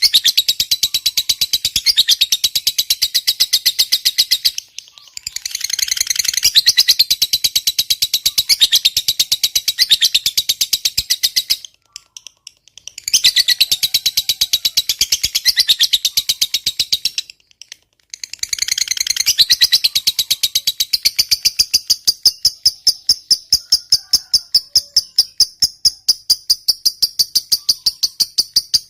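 Lovebird chattering in long rapid runs of high, quick-fire notes, the long 'ngekek' song that bird keepers prize. The runs break off briefly about 5, 12 and 17 seconds in, and the notes settle into a more even pulsing series in the last third.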